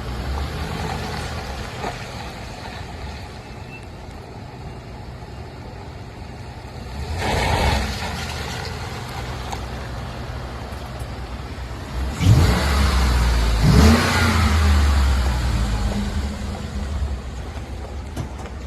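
Ford F150's 5.0-litre gas V8 idling steadily, revved twice in quick succession about twelve and fourteen seconds in, then settling back to idle.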